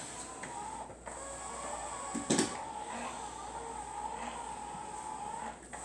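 Robot mop with spinning mop pads running across the floor, a steady motor hum with a held whine. One short knock sounds about two and a half seconds in.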